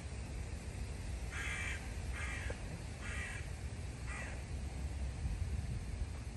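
Four harsh calls, each under half a second and spaced roughly a second apart, the last one weaker, over a steady low rumble of wind on the microphone.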